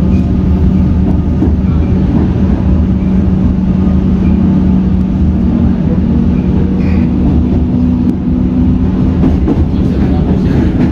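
Comeng electric suburban train running, heard from inside the carriage: a steady low hum over the rumble of wheels on the track, with a few sharp clicks from the rails.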